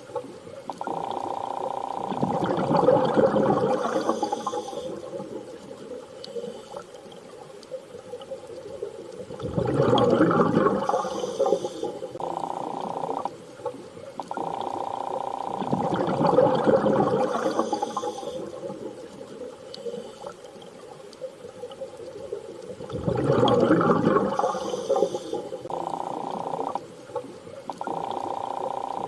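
Underwater ambience: a rushing swell of water-like sound rises and falls about every six to seven seconds, with steady humming tones in between that start and stop abruptly.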